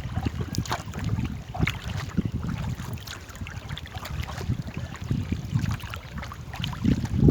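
Paddles dipping and splashing irregularly as a small rowboat is paddled on a river, under a steady low rumble of wind on the microphone.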